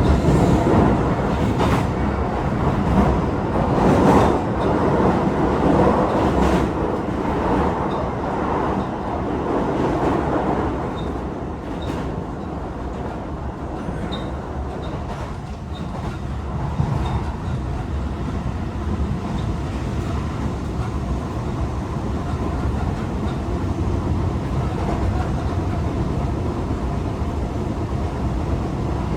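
Tokyo Metro 18000 series electric train running between stations, heard inside the car: steady wheel-and-rail running noise, with a few sharp knocks in the first several seconds.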